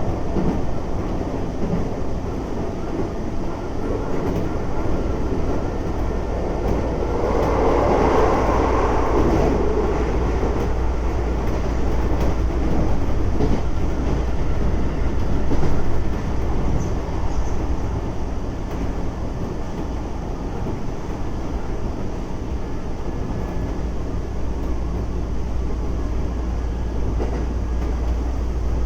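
Keisei 3400 series electric train running at speed, heard from inside the car: a continuous rumble of wheels on rail that swells louder for a few seconds about a quarter of the way in, then settles back to a steady run.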